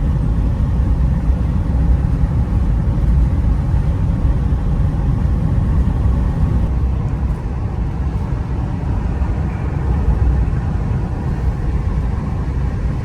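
Van driving on the road: a steady low rumble of engine and road noise.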